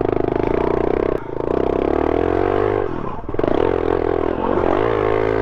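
Dirt bike engine revving hard under load, held in second gear. Its pitch rises and falls with the throttle and drops briefly about three seconds in before climbing again.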